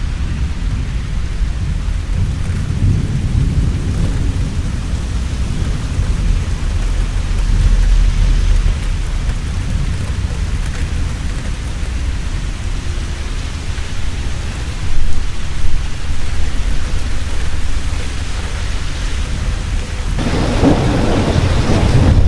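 Heavy rain falling steadily with rolling thunder. The thunder rumbles deep through the first several seconds, cracks sharply about two-thirds of the way in, and the rain swells louder near the end.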